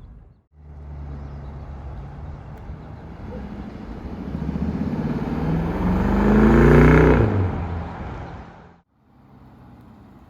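BMW 650i's twin-turbo V8 in an exhaust drive-by: the car accelerates past, its engine note rising in pitch and loudness to a peak about seven seconds in, then dropping in pitch and fading away.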